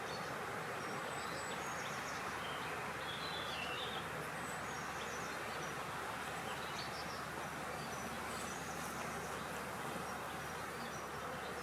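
Outdoor nature ambience: a steady, even rushing background with short, scattered high bird chirps over it, a few in quick clusters.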